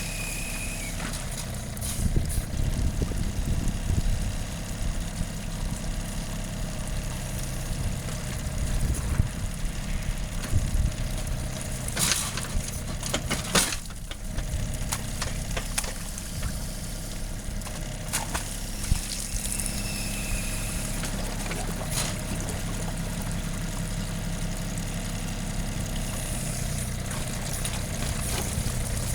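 John Deere 4200 compact tractor's diesel engine running steadily while working a backhoe, with several sharp knocks and clanks along the way.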